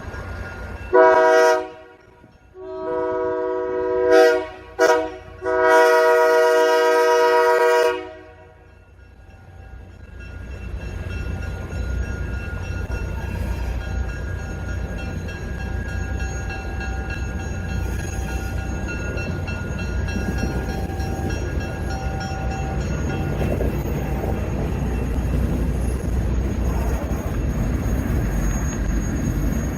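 Diesel locomotive air horn sounding four chord blasts for a grade crossing, short, long, short and a final long one. A low, steady locomotive rumble then builds as the train draws up and passes.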